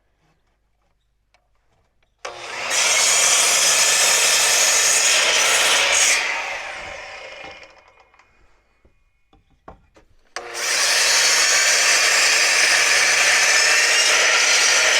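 An electric power saw cutting wood twice, each cut about four seconds long and ending with the blade winding down.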